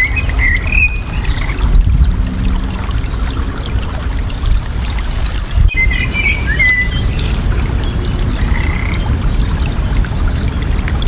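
Steady rush of flowing water with songbirds chirping over it: a run of calls at the start, another about halfway through, and a short call shortly after. A brief click sounds just before the second run of calls.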